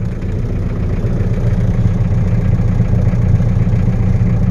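Ford Ranger's Perkins diesel engine idling steadily, shortly after a cold start in sub-freezing weather, with oil pressure still coming up slowly as it warms.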